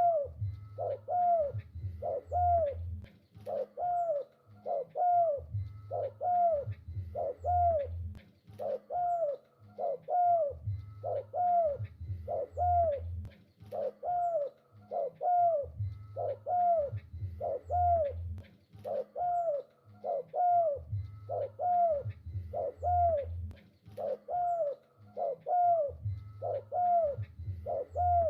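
Spotted dove (tekukur) cooing on and on, a steady run of short down-curving notes, about one and a half a second.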